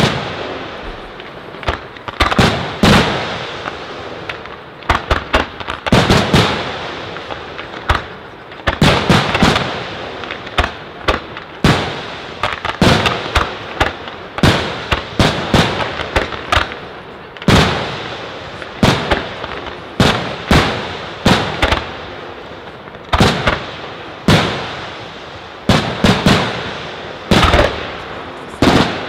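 Fireworks display: aerial shells bursting in a rapid, irregular string of sharp bangs, about one or two a second, with crackling between them.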